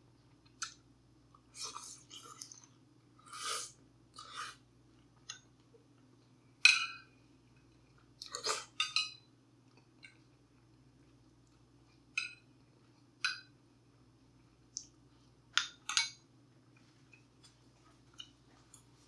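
Close-miked chewing and biting: a person eating tacos and tortilla chips, with irregular short crunches and wet mouth sounds, the loudest bite about six and a half seconds in, over a faint steady hum.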